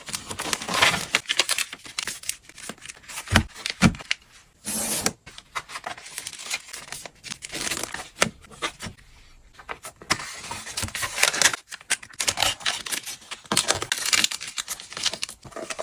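Packing a printed book by hand: irregular crinkling and tearing of wrapping material, with sharp clicks and a few knocks as it is handled.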